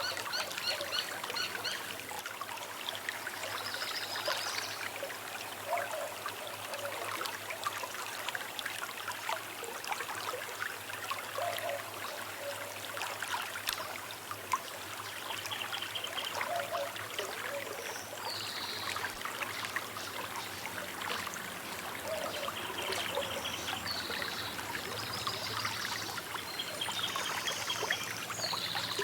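Small river trickling and flowing steadily, with birds calling and chirping on and off above the water.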